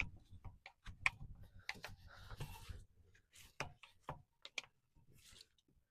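Faint, scattered clicks and taps with a short stretch of scrubbing about two seconds in, from a detailing brush working the inside of a truck wheel.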